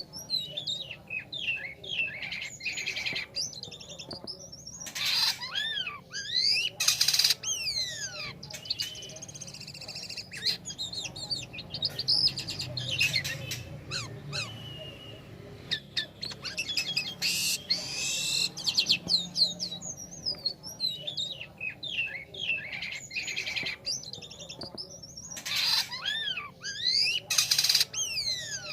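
Jalak kapas starling singing a long, varied song of rapid whistled slurs and trills, broken now and then by short harsh, rasping notes.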